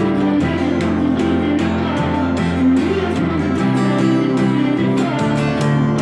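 Guitar music, plucked and strummed chords at a steady pace.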